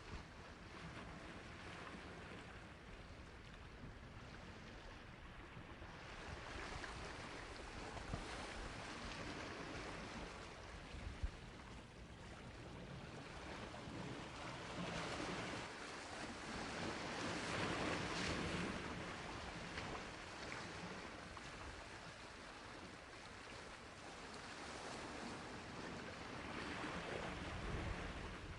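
Sea waves washing onto the shore, the surf swelling and receding in slow surges and loudest a little past the middle. A brief sharp knock about eleven seconds in.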